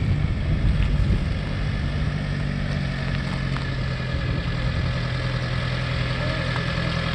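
John Deere 1070 compact tractor's diesel engine running steadily.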